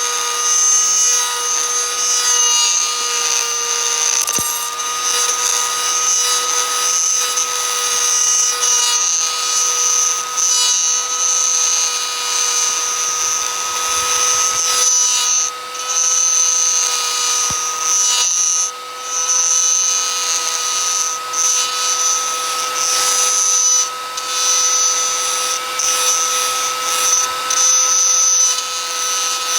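Electric power tool running continuously on wood with a steady, high whine, its loudness dipping briefly now and then.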